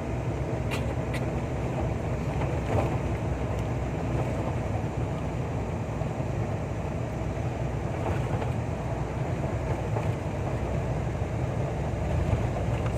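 Steady engine and road noise of a tractor-trailer truck on the move, a low, even rumble.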